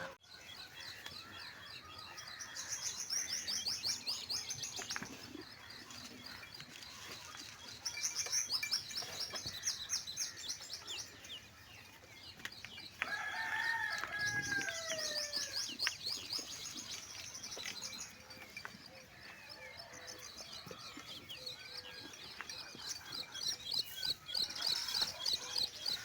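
Small songbirds chirping in quick high trills that come in several bouts, with a rooster crowing once about halfway through, a long call falling in pitch.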